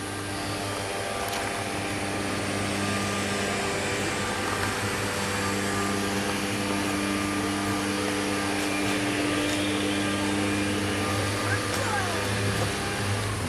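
Grass-cutting machine running with a steady engine drone.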